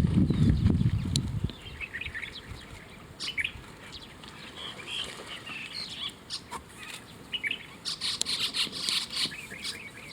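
Wild birds chirping in short, scattered calls, with a low rumble for the first second and a half and a brief rustling hiss near the end.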